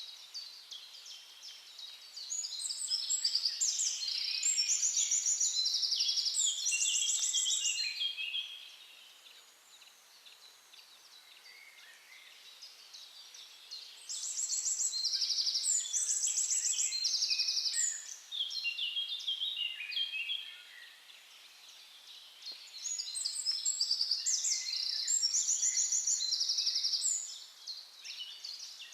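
A songbird singing three long bouts of rapid trills and varied high phrases, each lasting about five seconds, with quieter bird chirps in the pauses between.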